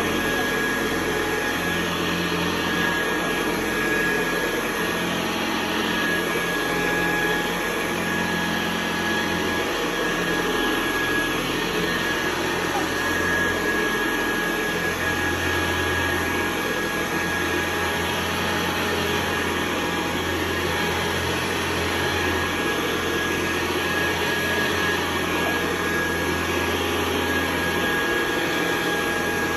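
1974 Hoover Convertible U4047 upright vacuum cleaner running steadily: a rush of air with a steady high whine from the motor and a low hum underneath.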